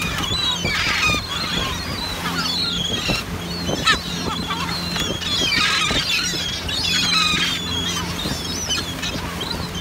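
A crowd of gulls calling over and across one another in short, squealing cries, many at once. Beneath them runs a steady low hum from the boat's engine.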